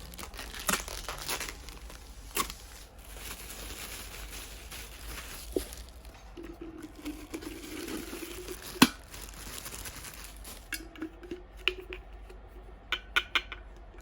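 Plastic wrapping and packing tape crinkling and tearing as they are stripped off a new drip coffee maker, with scattered sharp clicks of its plastic parts being handled and a cluster of clicks near the end.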